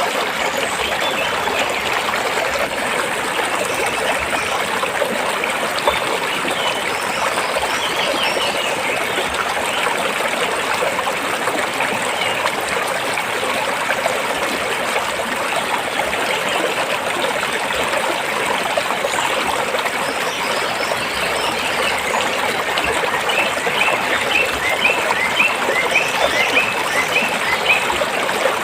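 A stream of water flowing over and between rocks, a steady rushing hiss. A quick run of short high notes comes in near the end.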